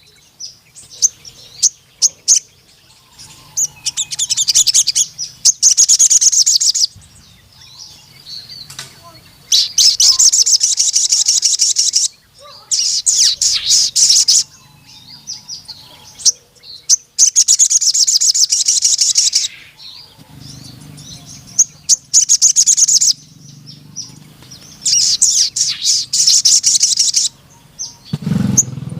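Crimson sunbird (sogon) singing: high-pitched bursts of very fast trilled notes, each lasting one to three seconds, repeated every few seconds with short single chirps between them.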